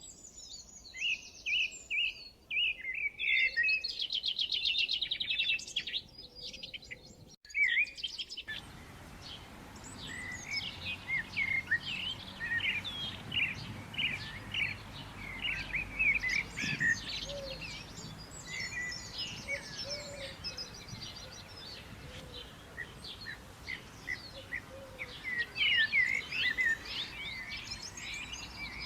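Wild birdsong: a few birds calling, one with a fast trill. A short break a quarter of the way in gives way to a busy chorus of many birds chirping over faint background noise.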